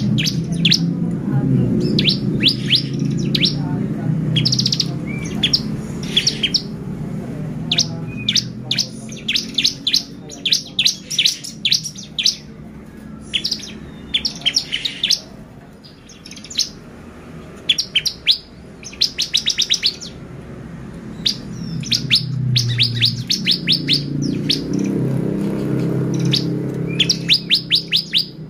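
Bar-winged prinia (ciblek) singing in quick clusters of sharp, high chirps and short rapid trills, repeated throughout.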